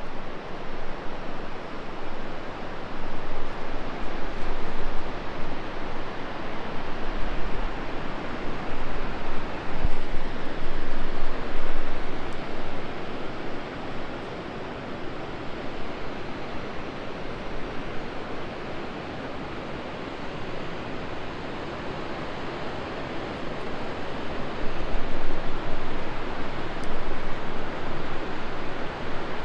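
Rushing water of a fast-flowing river, a steady wash of noise that swells and eases in loudness.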